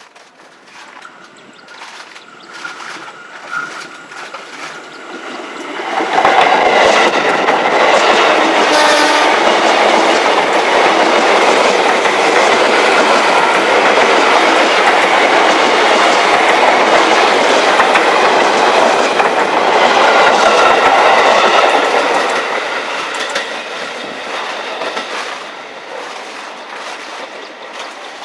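A train running past at close range on the rail line, wheels clattering over the rails. It builds gradually, turns loud abruptly about six seconds in, holds for about fifteen seconds, then fades as it moves away.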